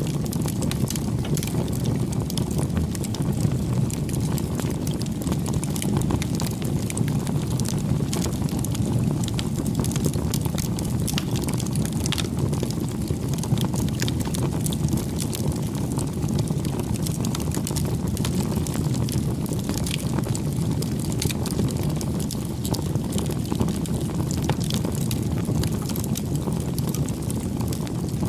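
Campfire burning with a steady low rumble of flames and frequent small crackles and pops from the burning wood.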